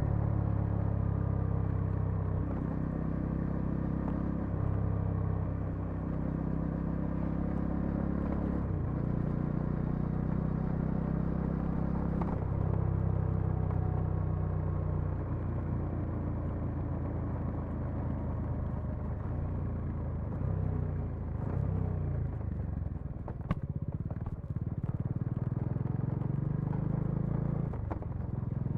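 Bajaj Dominar 400's single-cylinder engine and exhaust running under way, the note rising and falling every few seconds with throttle and gear changes.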